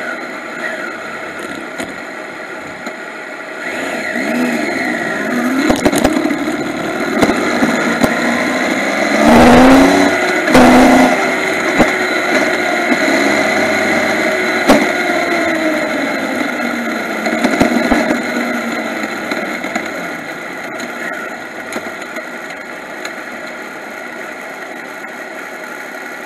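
Yamaha MT-09's inline three-cylinder engine running as the motorcycle is ridden, its pitch rising and falling as it pulls and eases off, over road noise on a bike-mounted camera. There are two loud rough bursts about ten seconds in, and scattered knocks.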